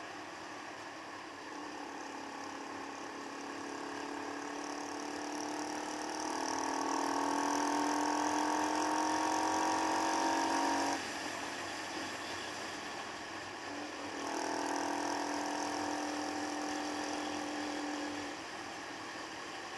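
Keeway Superlight motorcycle engine pulling under throttle, its pitch climbing slowly. About eleven seconds in it drops off suddenly as the throttle closes, then pulls again for about four seconds before easing off, over a steady rush of wind and road noise.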